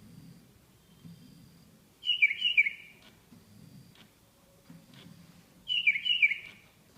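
Parrot-like bird chirps, most likely a sound effect played for the Lego WeDo 2.0 parrot model when it is triggered: two short bursts of several quick falling chirps, about four seconds apart.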